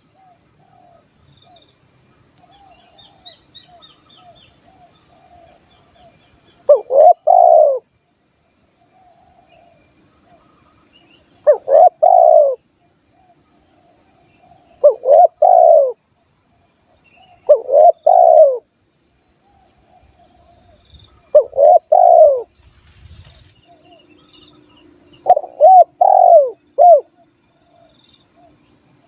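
Spotted dove (tekukur) cooing, a low phrase of a few rolling notes about every three to four seconds, six times. Behind it runs a steady high insect buzz with faint chirps of small birds.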